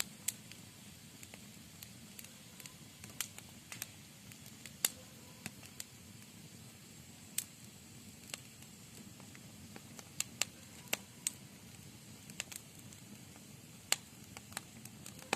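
Campfire burning: a soft steady hiss with irregular sharp crackles and pops, one or two a second.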